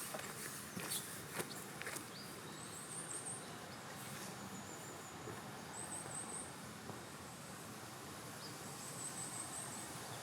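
Faint woodland ambience: a few footsteps crunching on the forest floor in the first two seconds, then a steady hiss of leaves and wind, with a thin, very high chirping call heard three times, a few seconds apart.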